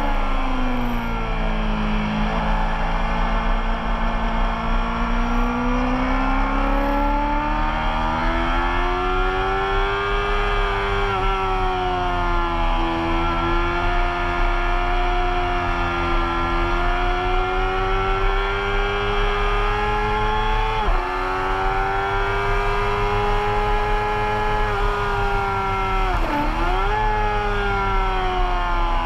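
Race motorcycle engine heard from a camera on its fairing, the engine note falling and climbing in long sweeps with the throttle through the bends. It has two sudden short dips in pitch, one about two-thirds of the way in and one near the end.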